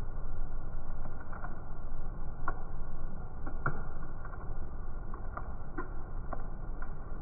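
Stir-frying in a wok: a steady low noise under about a dozen light, uneven clicks and taps of a metal spatula against the wok.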